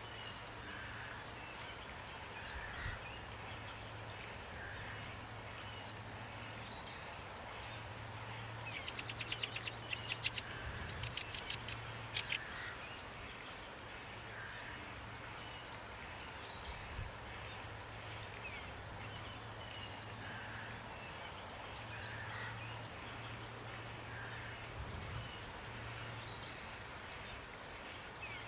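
Songbirds chirping and whistling over a steady hiss of falling rain, with a fast rattling trill of rapid clicks about nine seconds in lasting some three seconds. A low hum comes and goes underneath.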